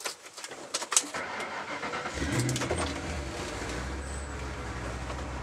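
Keys and ignition clicking, then about two seconds in the 1995 Mustang Cobra's 308 ci V8, with a Steeda #19 cam and Bassani exhaust, starts with a brief rev flare and settles into a steady low idle.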